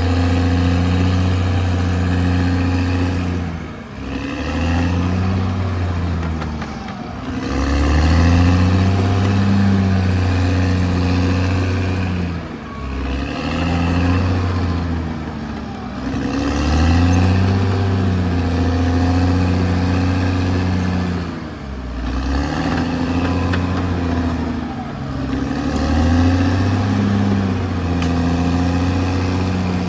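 Caterpillar D6R XL bulldozer's diesel engine working. Its note dips and bends, then steadies again, about every four to five seconds as the load changes.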